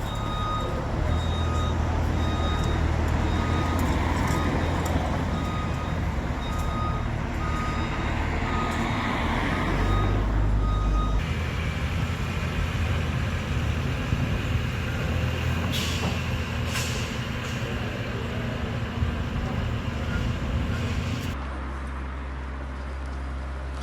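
Heavy construction vehicle running, with its reversing alarm beeping over and over until it cuts off about eleven seconds in; the engine noise carries on, with a few sharp clanks later.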